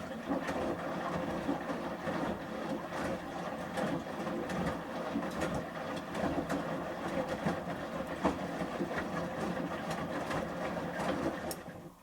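Samsung Series 5+ front-loading washing machine turning its drum during the main wash, wet shirts tumbling and water sloshing with scattered knocks. It starts suddenly and stops just before the end, as the drum pauses between turns.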